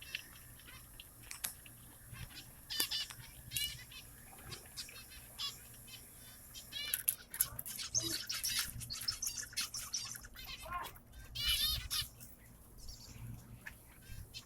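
Small birds chirping in short, quick high-pitched calls: a few scattered chirps at first, then a busy run of chirping through the middle of the stretch.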